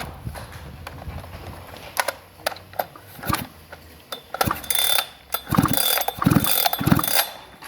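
Clicking and ratcheting of chainsaw parts being handled and fitted by hand, scattered at first and then a busier run of clicks and scrapes in the second half.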